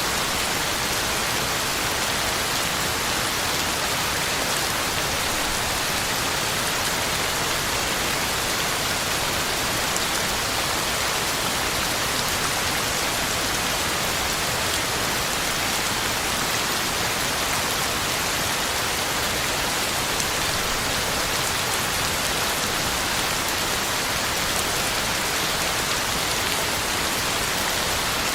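Heavy rain falling steadily on the ground and leaves, a constant even hiss of drops with no thunder.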